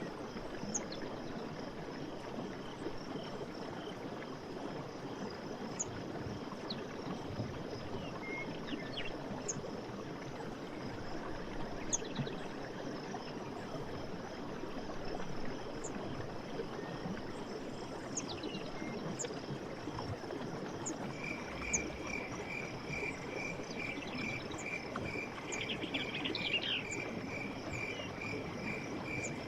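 Night forest ambience: a steady high insect trill over a continuous rushing background, with short high chirps every second or two. About two-thirds of the way in, an evenly repeated pulsed call of a frog or insect joins, about two pulses a second.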